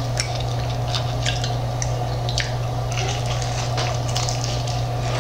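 Close-up chewing of crispy BBQ chicken wings: scattered crunches and crackles with wet mouth sounds, over a steady low hum.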